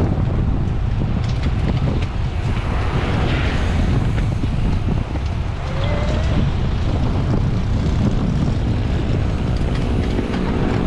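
Wind buffeting the microphone of an on-board camera on a racing bicycle at speed: a loud, steady, low rumble.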